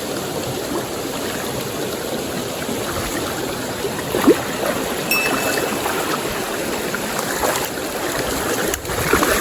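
Stream water running steadily over rocks, with one brief sharp sound about four seconds in.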